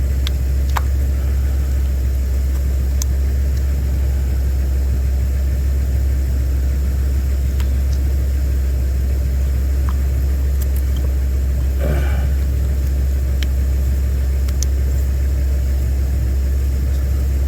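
Steady low engine drone, like a vehicle idling, with a few light clicks and a short scrape about twelve seconds in.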